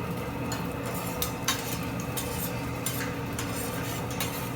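Metal utensils clinking and scraping in a few sharp separate clicks, over a steady low hum.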